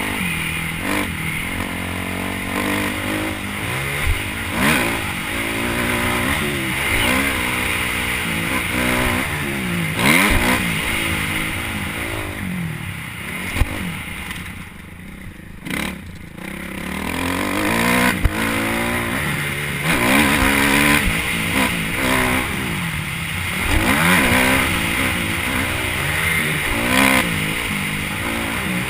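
Motocross motorcycle engine revving up and falling back again and again as it is ridden through the gears. The engine note drops away briefly about halfway through before building up again, with some clattering.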